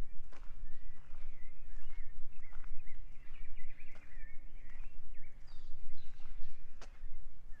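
Several small birds chirping and twittering in quick, high calls over a steady low rumble, with walking footsteps on a forest path.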